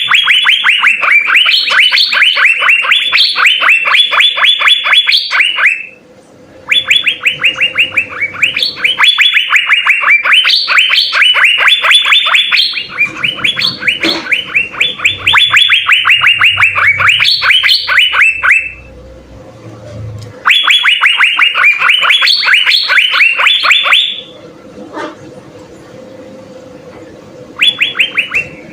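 Asian fairy-bluebird (cucak biru) singing: long, rapid runs of repeated notes, each sliding down in pitch, in bouts several seconds long broken by short pauses.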